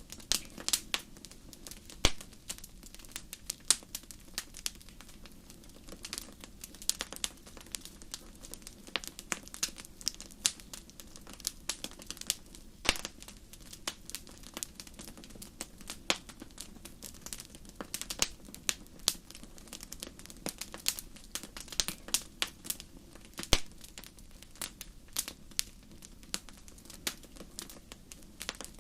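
Wood fire crackling in a fireplace: frequent irregular sharp pops and snaps over a faint low hiss of the flames.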